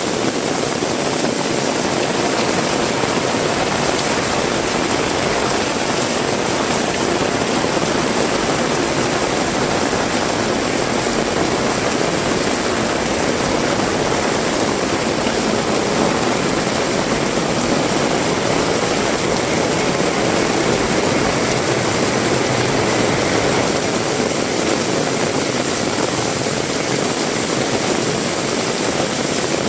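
Heavy rain falling steadily: a dense, even hiss that stays level throughout, with no breaks.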